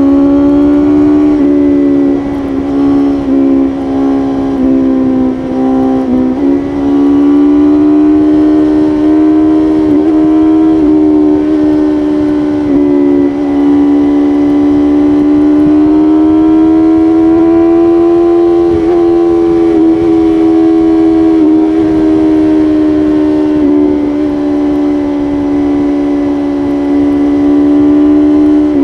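BMW S1000RR's inline-four engine running at high revs at highway speed, over a rush of wind noise. Its pitch holds steady apart from a few quick throttle dips in the first few seconds and a slow rise and fall in pitch in the middle.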